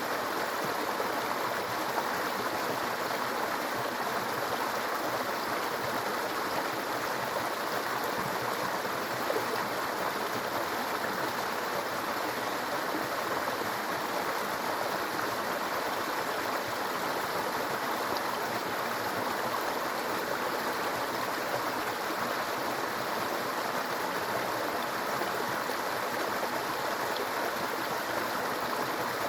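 A small stream babbling over stones, a steady, even burble of running water.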